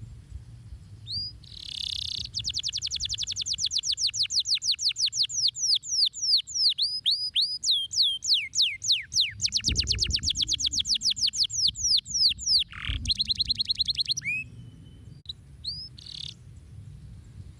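Domestic canary singing: long rolling trills of rapid, repeated, downward-sweeping whistled notes, several a second, changing tempo and pitch from phrase to phrase, then breaking off into a few short single chirps near the end.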